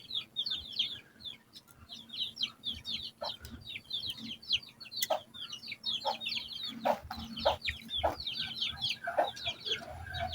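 Sooty-headed bulbuls (kutilang) chattering: a dense, rapid run of short downward-sweeping chirps, with a few sharp knocks about halfway through.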